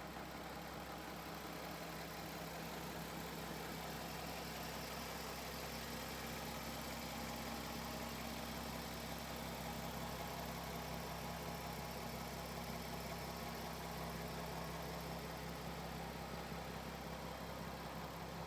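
Jaguar F-Type S's supercharged 3.0-litre V6 idling steadily.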